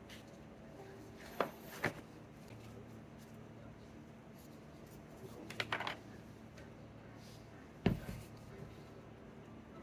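A few scattered handling clicks and taps, a quick run of small clicks in the middle and one sharper knock near the end, over a faint steady hum.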